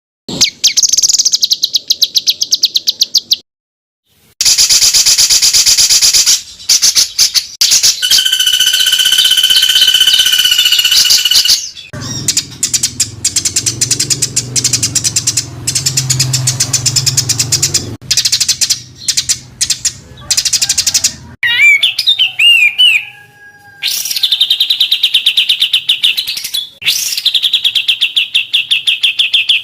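Songbird song in edited segments: runs of fast, rapidly repeated harsh high notes, the rapid-fire 'tembakan' phrases bred songbirds are trained on. Each segment cuts off abruptly into the next, with a brief silent gap about four seconds in and a low hum under the song from about twelve to eighteen seconds.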